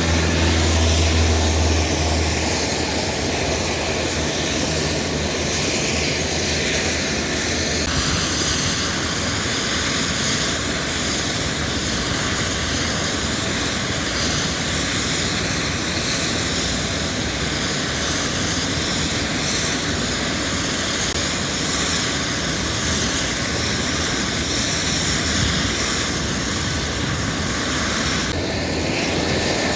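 Helicopter engine and rotor running steadily, a loud dense noise with a wavering whine on top. A strong low hum fades after the first couple of seconds, and the sound changes abruptly about 8 seconds in and again near the end.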